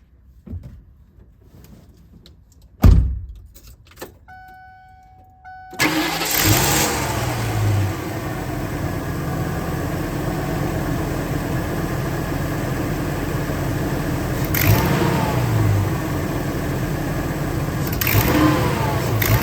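A heavy thump, a few clicks and a short beeping tone, then the 6.8-litre Triton V10 of a 1999 Ford E-450 cranks and starts about six seconds in and runs steadily at idle, with a few brief rises. The engine has a mild exhaust manifold leak where the passenger-side rear manifold stud has rusted out.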